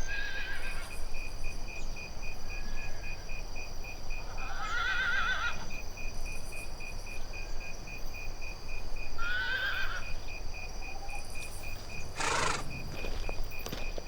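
Horse whinnying twice with a wavering, trembling pitch, then a short noisier burst about twelve seconds in, over a steady high chirping pulse repeating about three times a second.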